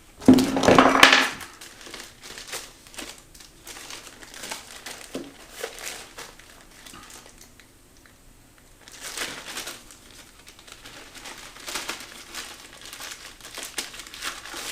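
Packaging crinkling and rustling as it is handled at close range, loudest in a burst at the start and again about nine seconds in, with scattered small crackles and clicks between.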